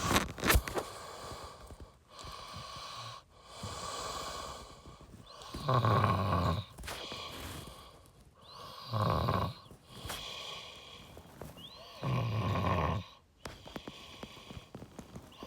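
A man's voice making three low, rough, snore-like sounds, each about a second long and about three seconds apart.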